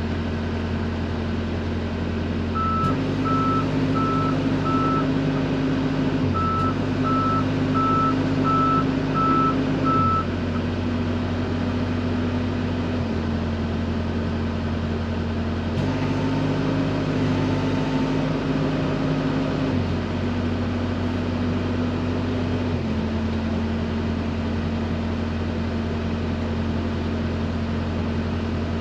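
XCMG XE55U mini excavator's diesel engine running, its note rising and falling in steps as the hydraulics are worked. A few seconds in, an alarm beeps about twice a second for several seconds.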